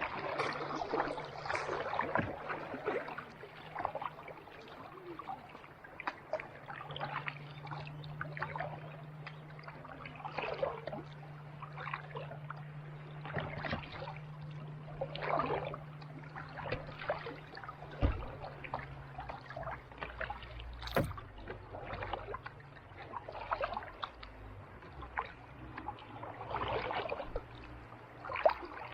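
Kayak paddle dipping into calm sea water, splashing and dripping with each stroke every few seconds.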